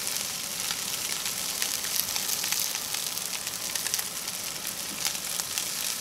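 Beet cakes frying in hot hemp oil in a cast-iron skillet: a steady sizzle with many small crackles and pops.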